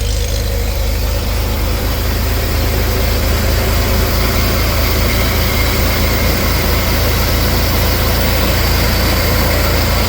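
1964 Chevrolet Corvair Monza's rear-mounted, air-cooled flat-six idling steadily while still cold, less than a minute after a cold start.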